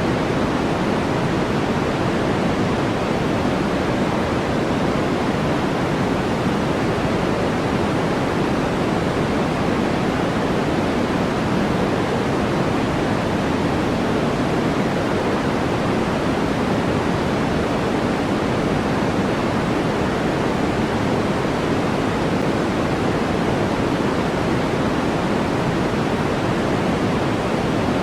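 Generated white-noise track: a steady, unchanging hiss with most of its weight in the low and middle range, like a distant waterfall.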